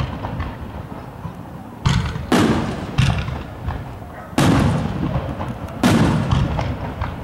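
Professional-grade aerial firework shells bursting overhead: about five sharp booms in quick succession, starting about two seconds in, each trailing off over most of a second.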